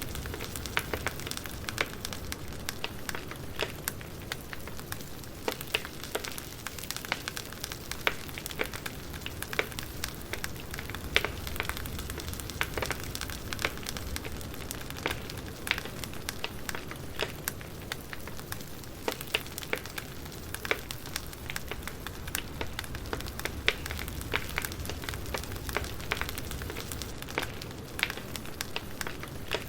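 Burning firewood crackling: irregular sharp pops and snaps over a low steady rumble of the fire.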